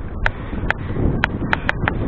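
Mountain bike rattling while being ridden: irregular sharp clicks and knocks, about five in two seconds, over a low rumble of wind and road noise.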